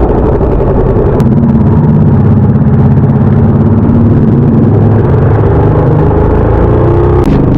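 A vehicle engine running steadily, its pitch shifting slightly near the end.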